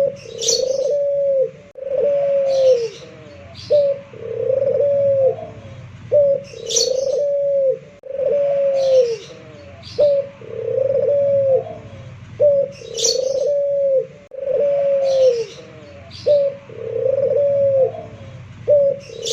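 Puter pelung dove (a local Indonesian turtle dove) cooing over and over in a steady rhythm: a short note, then a longer coo that drops in pitch at its end. Short high chirps from a small bird come every few seconds.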